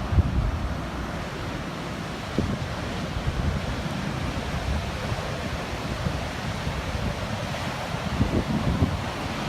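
Ocean surf breaking and washing onto a beach in a steady roar of noise, with wind buffeting the microphone in gusts at the start and again near the end.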